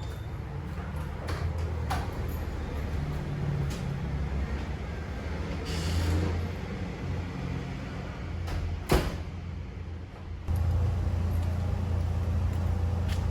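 Steady low rumble like a vehicle's running and road noise, with a few faint clicks and one sharp knock about nine seconds in; the rumble gets louder about ten and a half seconds in.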